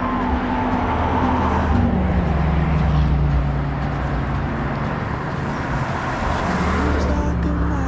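A motor vehicle engine running with road traffic around it; its note drops over the first few seconds and rises again near the end.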